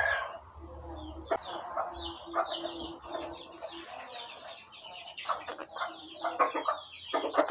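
Bird calling without words: a string of short high chirps that each fall in pitch, with rougher calls between them.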